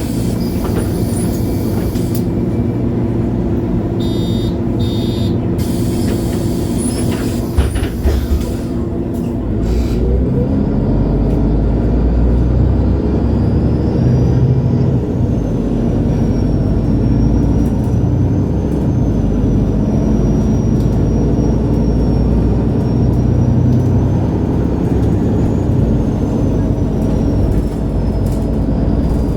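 2011 MAN A23 Lion's City G articulated diesel city bus running at a stop, with air hisses and short beeps in the first seconds. About ten seconds in it pulls away: the engine sound rises and a high whine wavers up and down with speed as it drives on.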